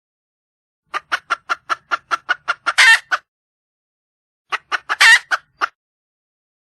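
Wild hen (red junglefowl) calling for a mate: a quick run of about ten clucks, about five a second, rising into a longer, louder squawk. A second, shorter bout of clucks with another squawk follows.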